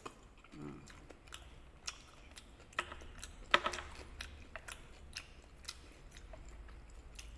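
A person chewing a mouthful of tteokbokki, the chewy Korean rice cakes in spicy sauce, with wet mouth noises and scattered sharp clicks.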